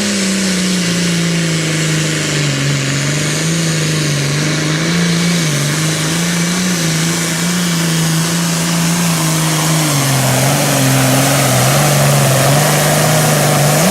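Super Farm class pulling tractor's diesel engine running hard at high, held revs through a pull, its pitch wavering slightly as the load changes.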